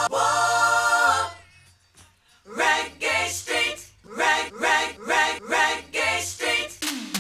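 Voices singing a cappella: a long held note, a short pause, then a run of short sung syllables at about two a second.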